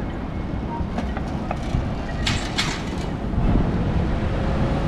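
Steady low rumble of passing street traffic, with a few light clicks and two short bursts of hiss about two and a half seconds in.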